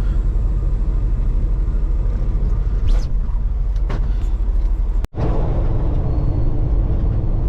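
Semi truck's diesel engine running with a steady low rumble as the truck gets under way. The sound cuts out abruptly for a moment about five seconds in, then carries on.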